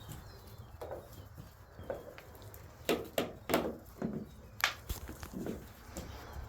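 Shiba Inu puppies at play: a quick run of short yips and scuffling sounds about three to five seconds in.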